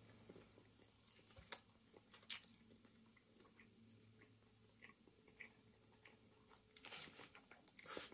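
Faint chewing of a flaky pastry, with a few soft clicks of the mouth, over a low steady hum. A soft breath is heard near the end.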